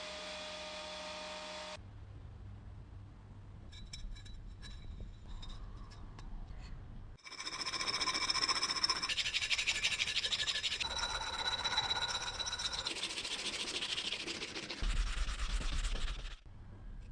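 Edited run of workshop work sounds. A steady motor hum cuts off abruptly, a few light clicks follow, then from about seven seconds in there are several seconds of loud abrasive scraping on metal parts, which stop suddenly near the end.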